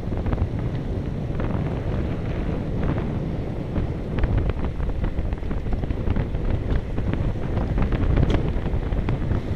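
Wind buffeting the microphone as a steady low rumble, with scattered short ticks and clicks through it.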